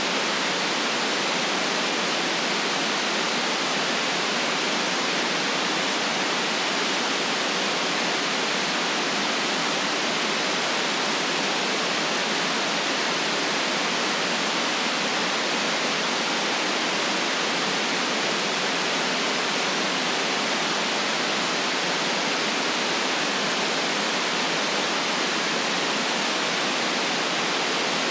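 Steady synthetic white noise, an even hiss with no lows below about 150 Hz and nothing above about 8 kHz, unchanging throughout.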